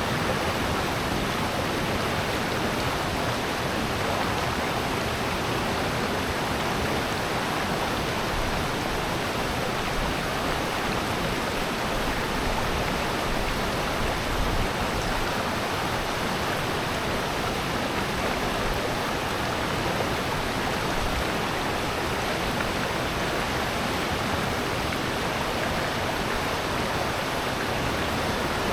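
Water of a valley stream and waterfall rushing steadily and evenly, without a break.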